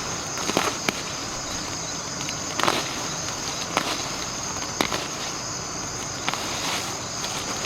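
Insects droning steadily on one high pitch, with a handful of sharp, irregular clicks and knocks over it.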